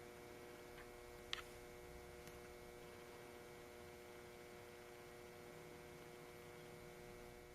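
Near silence: a faint steady electrical hum, with one faint click about a second in.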